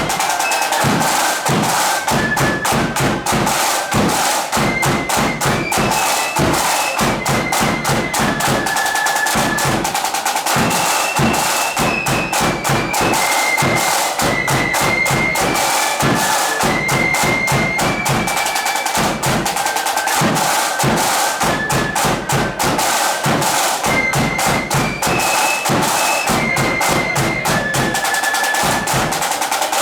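Marching flute band playing a tune: a melody on flutes over rapid snare drumming and bass drum beats.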